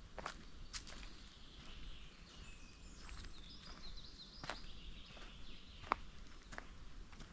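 Footsteps on a forest trail, sharp irregular steps at walking pace, over a faint woodland ambience. About midway a small songbird gives a short twittering run of high chirps.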